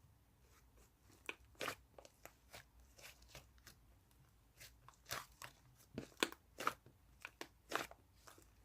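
Fluffy cloud-type slime being squeezed and pressed by hand, giving irregular crunchy pops and crackles that grow denser and louder about halfway through.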